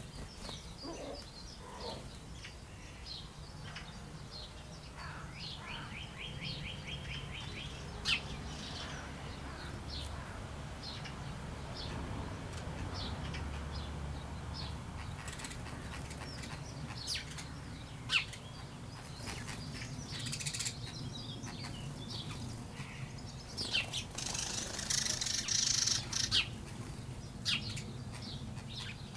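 Small birds chirping on and off with short high calls, with a quick trill of even notes about six seconds in. A louder noisy flurry with wing flapping comes near the end.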